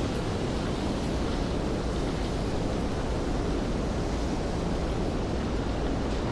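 Steady rainfall and city street ambience, an even hiss with a heavy low rumble and no distinct events.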